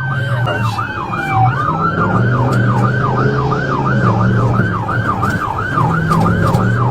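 Police car siren on yelp: a fast rising-and-falling wail, about four sweeps a second, sounding continuously.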